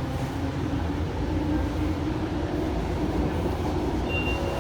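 VTA light rail train heard from inside the car as it pulls away: a steady rumble of wheels on the track with a motor whine that rises in pitch over the first couple of seconds, then holds. A brief high tone sounds near the end.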